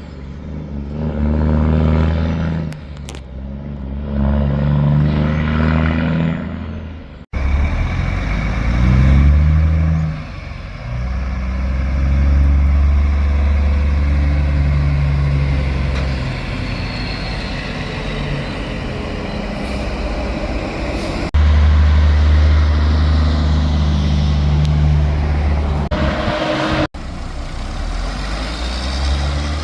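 Loud diesel semi-truck engines and exhausts, several trucks one after another, with the sound cutting abruptly about 7, 21 and 27 seconds in. Each has a low, strong engine note that steps up and down in pitch.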